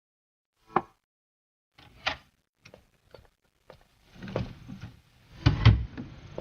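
Scattered short knocks and clicks, a little scuffling, then two heavier thumps near the end, like a door and someone moving about.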